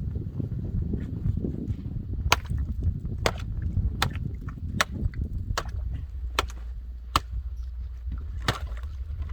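A series of sharp strikes or knocks, about one every three-quarters of a second, over a steady low rumble.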